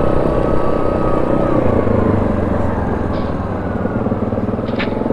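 ATV engine running steadily under way on a trail, its pitch easing down a little about two seconds in.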